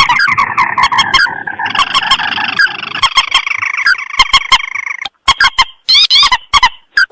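Bird-lure recording of paddy-field rails and crakes (mandar and tikusan) calling together: rapid, harsh, chattering calls with sharp clicks, broken by a few sudden short gaps in the second half.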